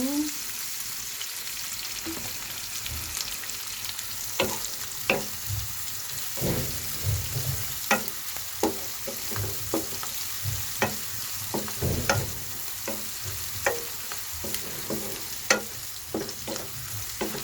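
Onion and green chillies frying in oil in a frying pan, with a steady sizzle. From about four seconds in they are stirred, giving irregular knocks and scrapes of the spatula against the pan, at times a few a second.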